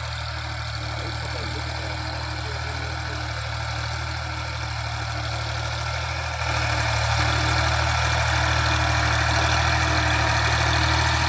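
Tractor engine running steadily at idle, then stepping up and getting louder about six and a half seconds in.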